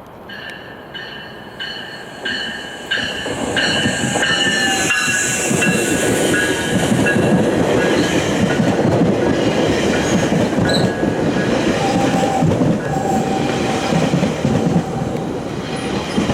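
GO Transit commuter train pulling into the station. Evenly repeated ringing strokes, nearly two a second, sound over the first few seconds as it approaches. The locomotive and coaches then rumble past loudly, with a squeal coming and going near the end.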